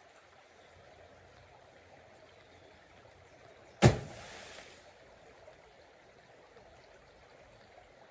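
A single sharp knock about four seconds in, trailing off in a brief hiss, over faint steady background noise.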